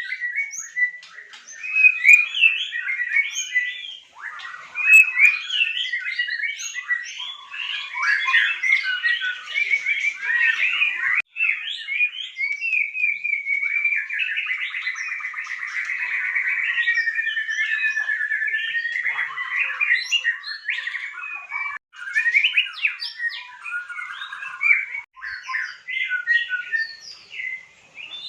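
White-rumped shama (murai batu) singing a long, varied song of quick whistled and chattering phrases, with a steadier trilling stretch in the middle.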